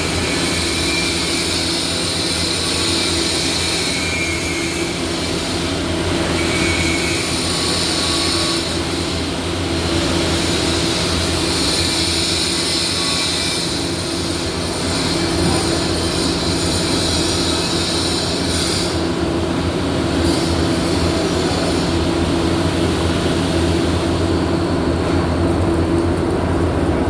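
Welding-shop noise: a steady electrical hum from welding machines, with the hissing crackle of welding arcs starting and stopping every few seconds over it.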